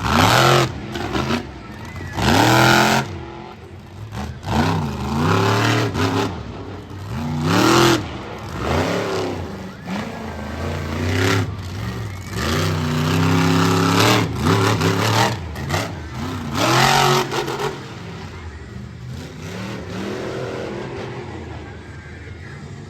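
Monster truck engine revving hard in repeated bursts, the pitch climbing and dropping again every couple of seconds, then settling lower near the end.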